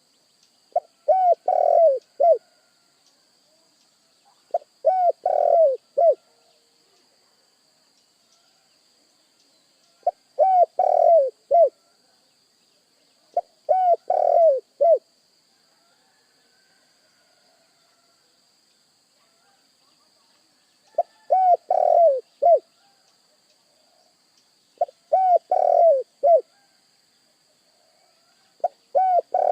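Spotted dove cooing: seven phrases of several short, rapid coos, each phrase about a second and a half long, with pauses of a few seconds between them.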